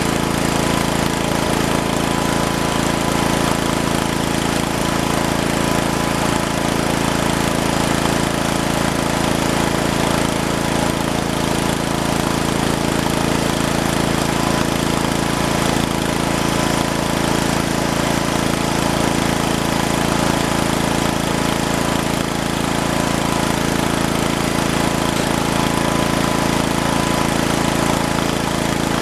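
Engine of a snow-plowing vehicle running at a steady speed, with no change in pitch or load.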